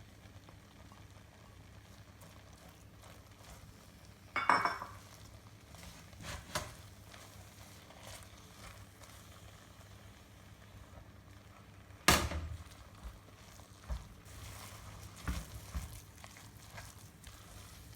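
A few knocks and clatters of kitchen utensils against cookware, the loudest two about four and twelve seconds in, over a low steady hum.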